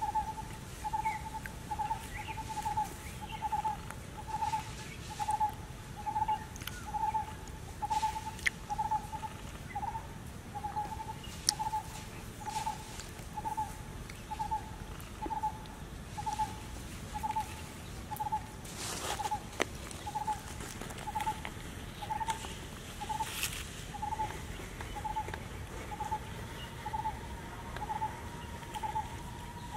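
A bird repeating one short, mid-pitched note at an even pace, a little faster than once a second, with a few brief crackles of dry leaves.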